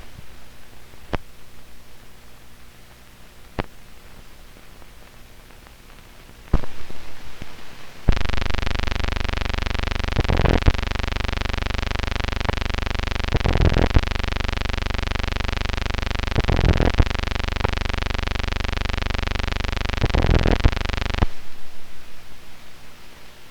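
Faint hiss with a few sharp clicks, then a loud, steady buzzing tone that starts suddenly, pulses about every three seconds, and cuts off suddenly.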